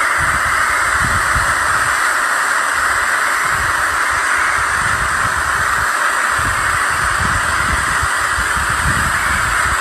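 Steady rushing of fast-flowing river water, with irregular low gusts of wind buffeting the microphone.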